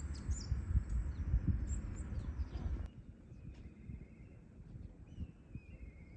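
Outdoor ambience: a low rumbling noise with scattered short bird chirps, then a quieter stretch from about three seconds in where a bird's warbling call is heard.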